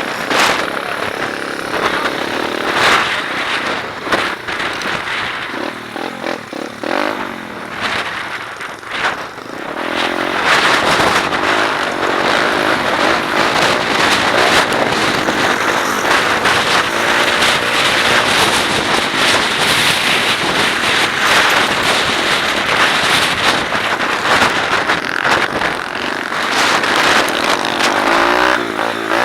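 125cc pit bike engine revving up and down as it is ridden, rising and falling in pitch. It is lighter for the first ten seconds or so, then runs loud and sustained under load from about ten seconds in.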